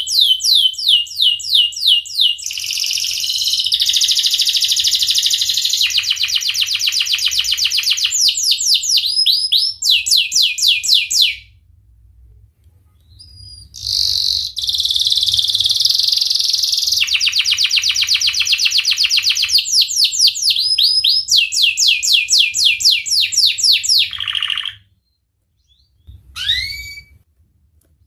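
Domestic canary singing long, loud phrases of rapid trills and fast-repeated sweeping notes. There are two long bouts with a pause of a couple of seconds between them, then a few short notes near the end.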